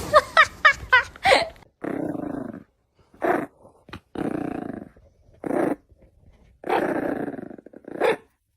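A dog growling and barking in turns: three long, low growls, each followed by a short bark. It opens with a quick run of about six short, high-pitched rising squeals.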